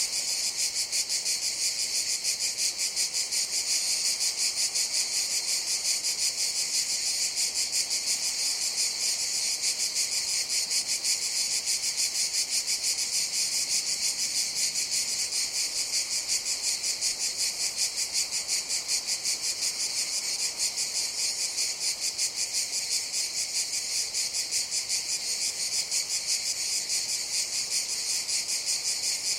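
Cicadas buzzing in a continuous chorus: a steady, high-pitched drone with a fine rapid pulsing that never breaks.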